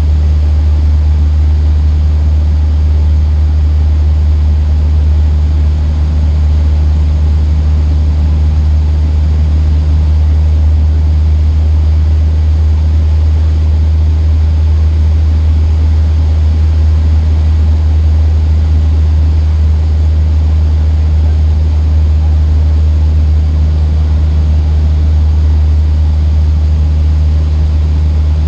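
Cessna 152's four-cylinder Lycoming engine and propeller giving a steady, loud drone inside the cabin at constant power, with no change in pitch.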